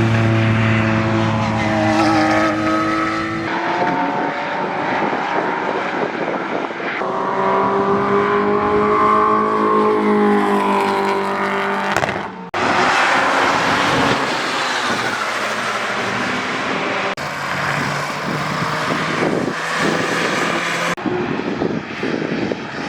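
Car engines running and revving in a series of short cut-together clips. A steady engine note comes first, a rev rises and falls around the middle, and a noisier stretch of engine and tyre sound follows.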